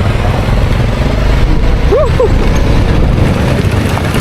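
Dirt bike on the move: a steady, loud rumble of engine and wind noise on the microphone. A short chirp rises and falls about two seconds in.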